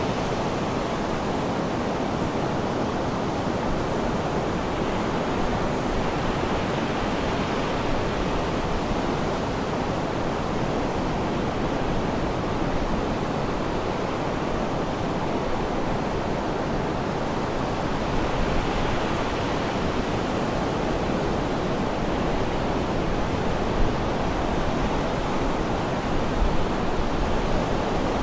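Sea surf washing in a steady, even rush, with slight swells a little past halfway and again near the end.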